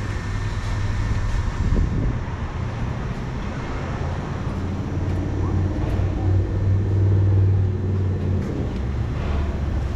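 A car engine running with a steady low rumble that swells a little between about six and eight seconds in.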